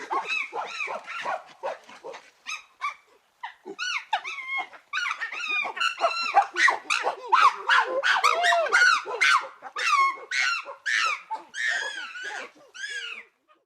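Chimpanzee calling: a fast run of short hooting calls, several a second, that climb higher in pitch and grow louder from about four seconds in, then ease off near the end.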